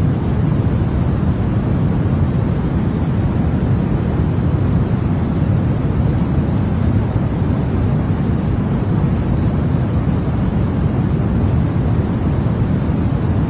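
Continuous baby-sleep white noise: a steady, even rushing hiss weighted toward the low end, deep rather than bright, with no variation.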